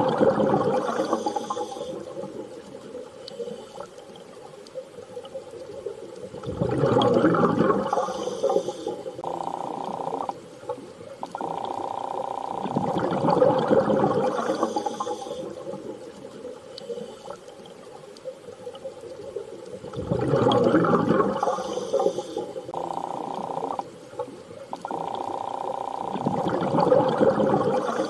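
Underwater sea ambience: slow swelling rushes of water come about every six to seven seconds over a steady hum. The hum cuts out briefly twice.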